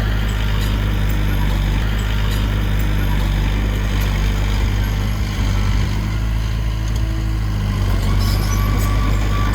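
Diesel engine of heavy earthmoving machinery running steadily at a constant pitch, with faint light ticks now and then.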